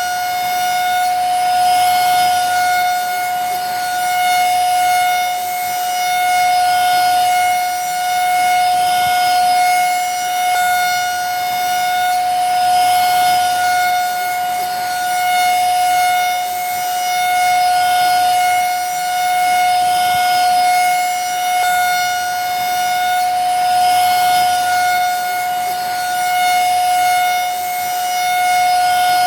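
Vacuum cleaner running steadily: a constant motor whine over a rush of air, swelling slightly in loudness every couple of seconds.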